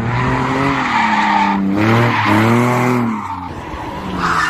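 A car engine revving hard, its pitch rising and falling twice, over the hiss of tyres skidding on the road. Engine and tyre noise drop away about three seconds in.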